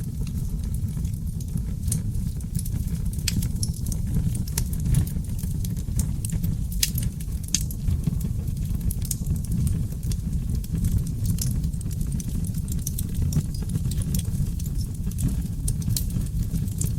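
Oak logs burning in a fireplace, crackling and popping in many sharp, irregular snaps over a steady low rumble of the flames.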